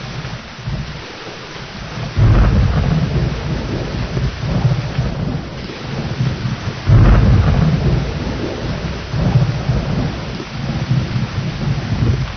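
Thunderstorm: steady heavy rain with rolling thunder, two loud claps, one about two seconds in and a louder one about seven seconds in, each rumbling away over several seconds.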